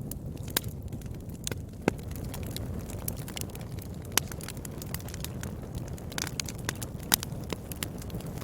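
Wood fire burning in a fireplace, with a steady low rumble and irregular crackles and sharp pops, the loudest pops a few seconds apart.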